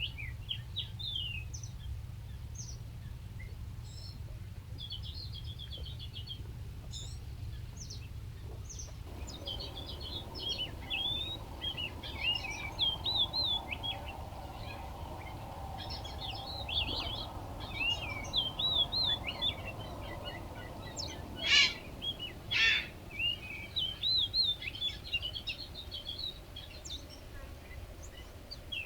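Small birds chirping and twittering in quick, high, sliding notes, often several at once, with two louder harsh calls about three-quarters of the way through. A low steady rumble runs underneath.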